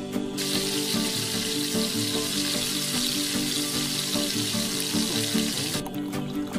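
Chicken pieces sizzling as they fry in a pan, over background music. Near the end the sizzle drops away as water is poured into the pan.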